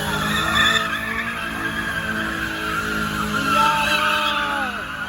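Car doing a burnout: the engine is held at steady high revs while the tires screech against the pavement, with a few short falling squeals near the end.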